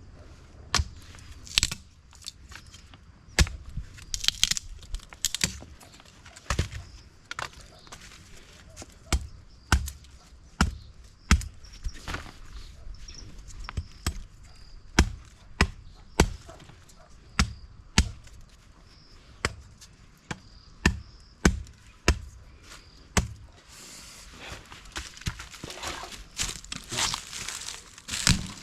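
Wood being chopped with a blade: repeated sharp strikes at an uneven pace of about one a second, with a stretch of rustling near the end.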